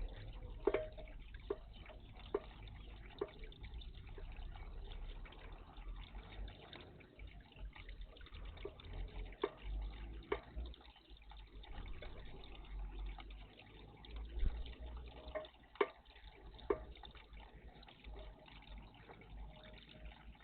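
Water splashing and dripping in a garden bird bath: a scatter of small, sharp splashes over a steady low rumble.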